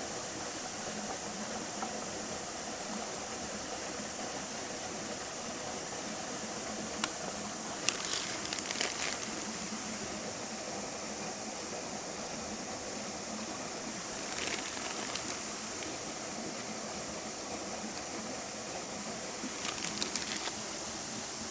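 Steady outdoor hiss with a high, even band over it, broken three times by short clusters of crackling clicks, heard about a third of the way in, around the middle and near the end.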